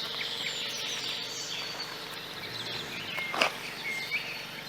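Outdoor nature ambience: short bird chirps over a steady high-pitched background hiss, with one sharp click about three and a half seconds in.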